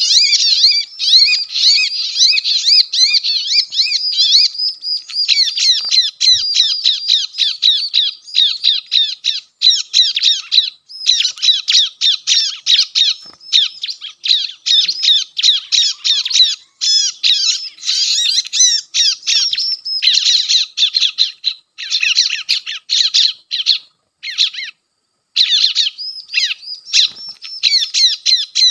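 Bar-winged prinia (ciblek) calls played from a speaker as a trapping lure: rapid series of quick down-sweeping notes, repeated in bursts with short gaps.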